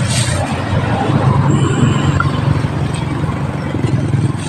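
Motor vehicle engine running close by, louder through the middle and easing off near the end.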